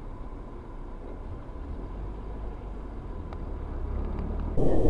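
Steady low rumble of a car driving, heard from inside the vehicle, with a faint steady whine. Near the end it gives way abruptly to a much louder rushing noise.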